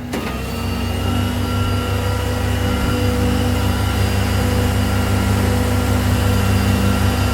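Peterbilt rollback tow truck's diesel engine running steadily, powering the hydraulics while the winch lets the box truck down the tilted bed. It swells a little in the first second, then holds an even note.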